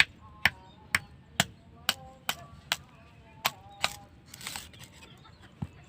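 A run of sharp knocks or chops at about two strikes a second, with a short rushing noise about four and a half seconds in and one last knock near the end.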